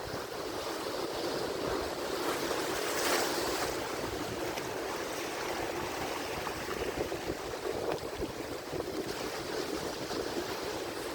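Atlantic Ocean waves breaking on the shore: a continuous wash of surf, with one wave cresting louder about three seconds in and then easing off into a steady rush.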